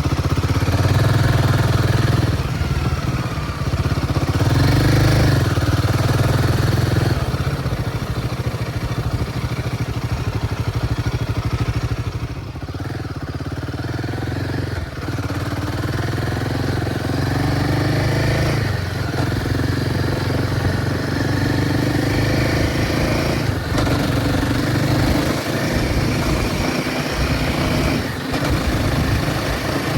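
Royal Enfield Himalayan 450's single-cylinder engine running under way. Its revs climb and drop several times, with brief breaks at the gear changes, and it eases off for a couple of seconds near the middle.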